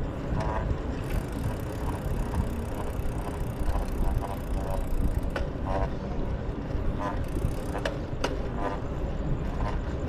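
Riding a bicycle: steady rumbling wind on the microphone and rolling noise, broken by a few short higher-pitched chirps and sharp clicks.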